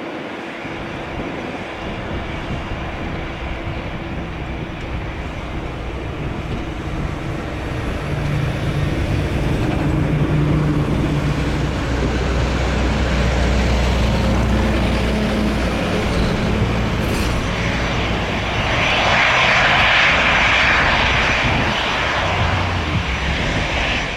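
Boeing 777-200LR's twin GE90 turbofans at takeoff thrust, a heavy jet's steady rumble and rush of engine noise that grows louder and is loudest a few seconds before the end, as the jet departs past close by.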